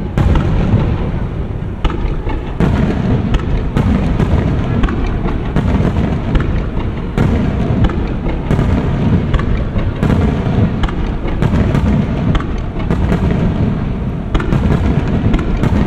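Fireworks display: aerial shells bursting in quick succession, a sharp bang every second or so over a continuous low rumble.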